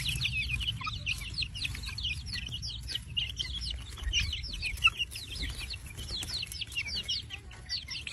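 A flock of chickens peeping: a steady, dense stream of many short, high, downward-sliding chirps overlapping one another.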